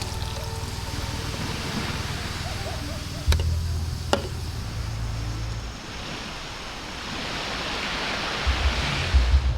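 Surf washing on a beach, a steady rush that swells toward the end, with two sharp clicks about three and four seconds in and a low rumble under it at times.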